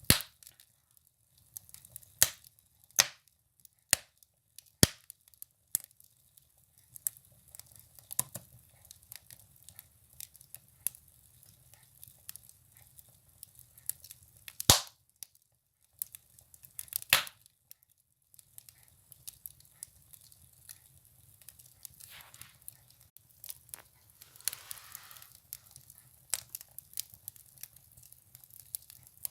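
Firewood burning in a stove, crackling with sharp pops at irregular intervals, some of them loud, over a faint low rumble, with a short hiss late on.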